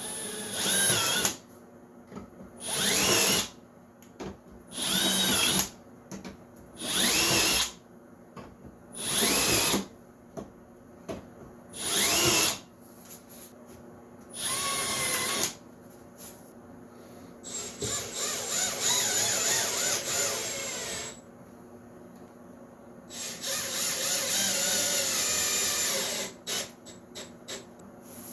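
Cordless drill running in about seven short bursts of about a second each, each winding up slightly in pitch, countersinking screw holes, followed by two longer runs of three to four seconds as screws are driven in.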